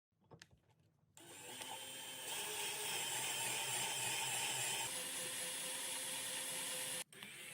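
A few light clicks, then a power tool starts about a second in and runs steadily, a whir over a hissing grind, with a brief break near the end.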